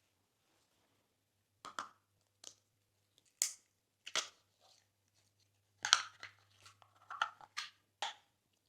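Slime being squished and mixed by hand, giving a run of short, sharp sticky crackles and pops, the loudest about two-thirds of the way through.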